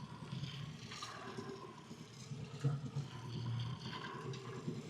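Water lapping softly against the hull of a small drifting boat, with a few faint knocks.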